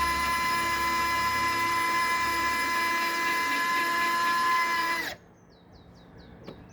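RC model P-47 warbird's motor and propeller running with a steady high whine at constant pitch, cutting off abruptly about five seconds in. After that, a bird chirps in quick falling notes.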